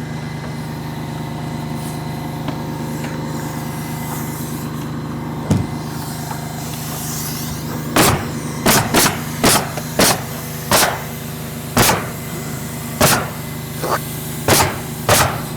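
A steady motor drone, like a compressor or generator running, and from about halfway a run of about ten sharp nailing strikes, roughly one every half second to a second, as sheathing is fastened.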